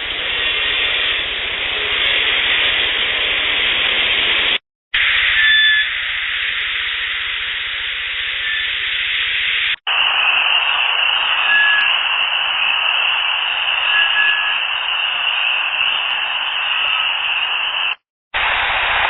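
Loud steady hiss from boosted field-recorder audio, several clips joined by brief silent gaps. A few faint, short whistle-like tones sit in the hiss, which the recordist presents as Sasquatch whistles, and one clip carries a steady high-pitched drone.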